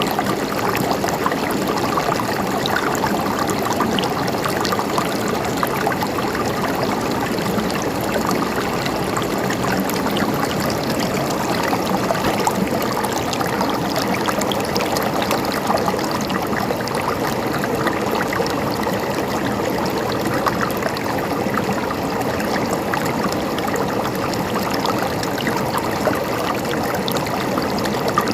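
Water running and gurgling in a stream, a steady even splashing with many small drips and trickles.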